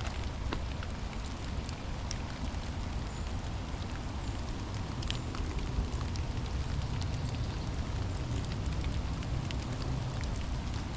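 Steady rain falling, with scattered sharp drips striking close by and a low rumble underneath.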